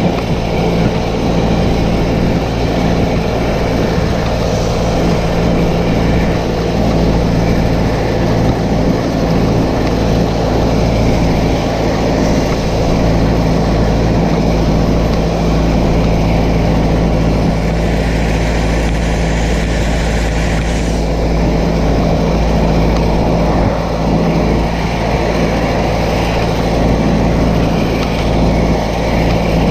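A vehicle engine running steadily at an even speed. A burst of higher hiss joins it about eighteen seconds in and stops about three seconds later.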